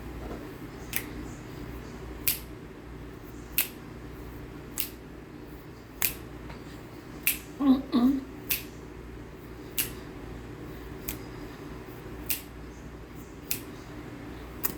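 Crisp crunches of packed cornstarch being chewed, one sharp crunch roughly every second and a bit in a steady rhythm, with a short hummed "mm" about halfway through.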